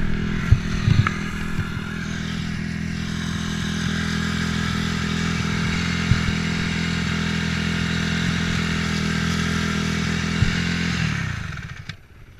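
Dirt bike engine running at steady revs, its pitch held nearly constant, then dropping off near the end as the throttle closes. A few sharp clatters in the first second or so.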